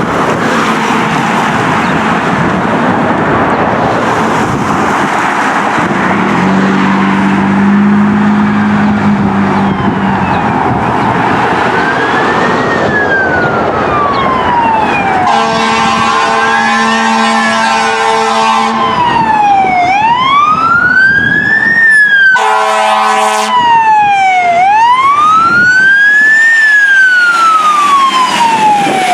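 Fire engine responding with horn blasts and an electronic siren wailing up and down in slow sweeps. After a few seconds of road noise a low horn tone sounds, then a long air-horn blast about halfway through and a short one a few seconds later, over the rising and falling siren.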